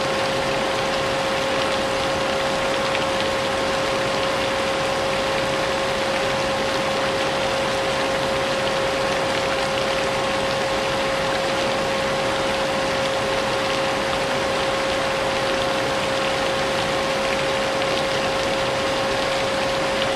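Vacuum cleaner running steadily, its motor holding one unchanging whining tone, layered over the even noise of falling rain.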